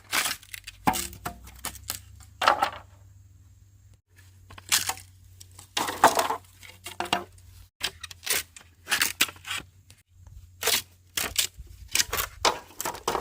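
Bamboo being chopped: irregular sharp chops and cracks, some with a brief splintering tail.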